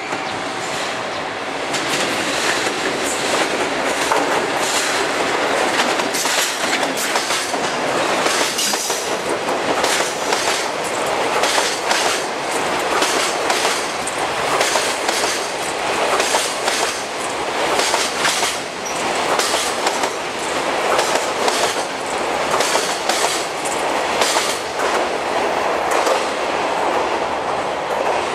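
Freight train hauled by an ED76 electric locomotive passing close by, a long string of container wagons rumbling over the rails with a continuous clickety-clack of wheels crossing rail joints.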